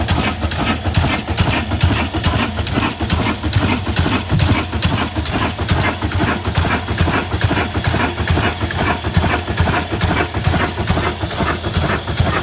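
Old black single-cylinder diesel engine running steadily, with an even, fast knocking beat from each firing stroke.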